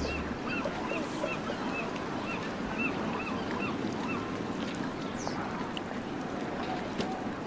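Birds calling over a steady wash of background noise: a quick run of short repeated chirps, about three a second, during the first three seconds, with scattered lower calls throughout.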